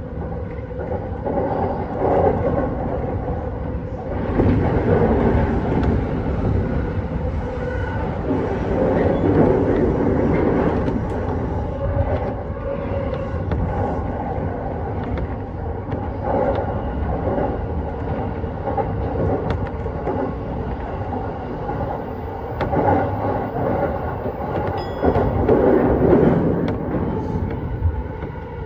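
JR East E233-series electric commuter train running on the track, heard from inside the front car: a steady wheel-on-rail rumble with faint steady tones over it, getting louder about four seconds in as it leaves the station. A few sharp clicks as the wheels run over points.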